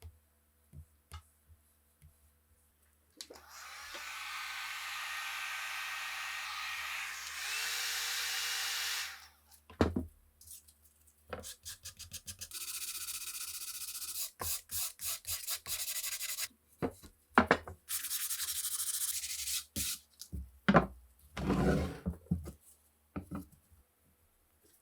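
Abrasive hand work on rusty rifle parts: a steady rubbing stroke lasting about six seconds, then a fast run of short scraping strokes, a second rubbing stretch, and a few knocks near the end.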